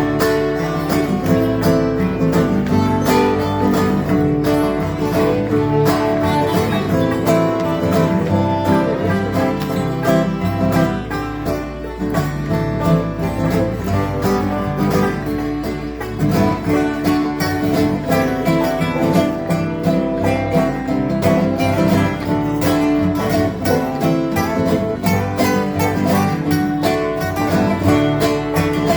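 Acoustic string band led by guitar playing an instrumental passage in a country-bluegrass style, with a steady, even beat and no singing.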